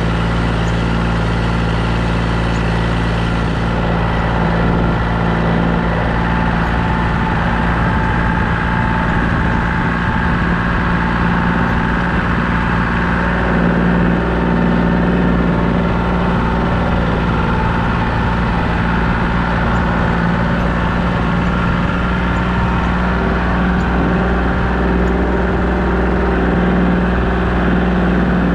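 Mahindra compact tractor's diesel engine running steadily at a constant speed.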